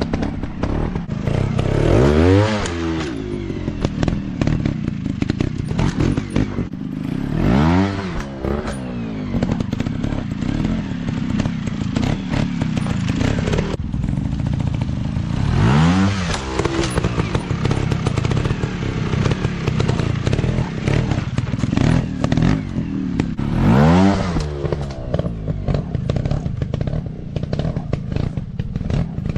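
Dirt-bike engines riding off-road, the throttle opened and closed so the engine pitch rises and falls four times, with clattering and knocks from the bikes over rough ground.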